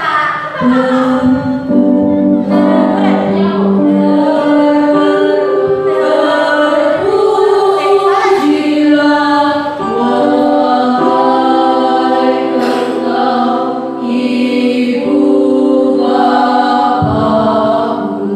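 Choir singing in several parts, holding long, steady notes that change together every second or two.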